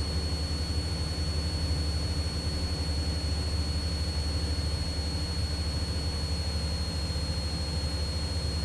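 Cessna 172's engine and propeller droning steadily in flight, heard from inside the cabin, with a thin steady high whine over the drone.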